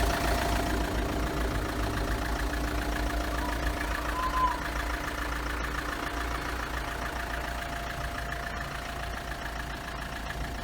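Diesel engine idling steadily with a fine, even clatter. A brief chirp sounds about four seconds in.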